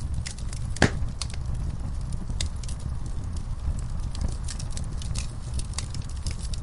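Logs burning in a fireplace: a steady low rumble of flames under frequent crackles and pops, with one sharp, louder pop about a second in.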